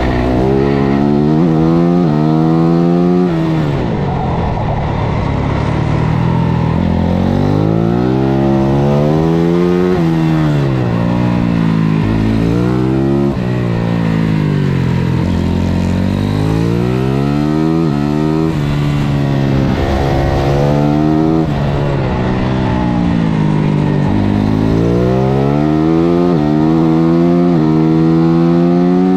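Engine of a 450cc single-cylinder four-stroke supermoto race bike at full race pace, heard from on board. It revs up through the gears with a sudden drop in pitch at each upshift, then falls away under braking and downshifts into the corners, over and over.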